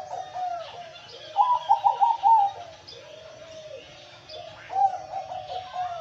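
Male zebra dove (perkutut) cooing its song: phrases of quick stepped cooing notes, repeated about every three seconds. Faint chirps of other small birds sound behind it.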